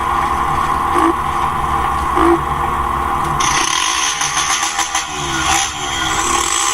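150 cc motorcycle engine with an open exhaust pipe running under way, with some brief changes in pitch. A loud hiss joins about three and a half seconds in.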